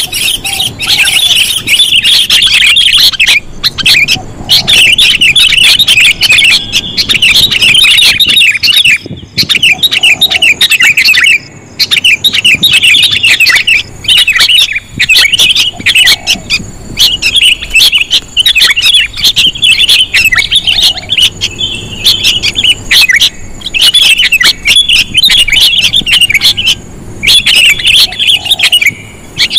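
Sooty-headed bulbuls (kutilang) calling in a loud bird-lure recording: rapid, dense chirping and chattering, broken by a few brief pauses.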